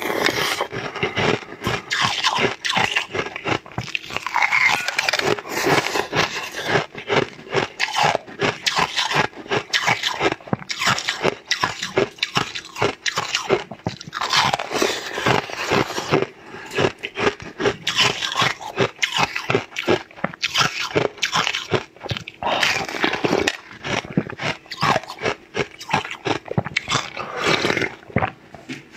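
Close-miked biting and chewing of translucent pink, dumpling-shaped food: rapid crunching with wet smacking mouth sounds.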